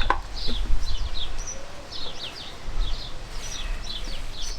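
Small birds chirping in the background: a busy run of short, high notes, several a second, over a low steady rumble.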